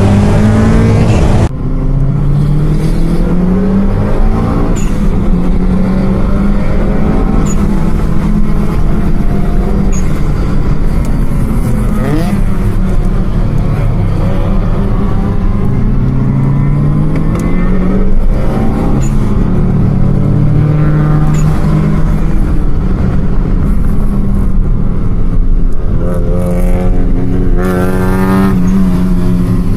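Car engines revving again and again, their pitch climbing and falling with each press of the throttle, with a stronger rev near the end.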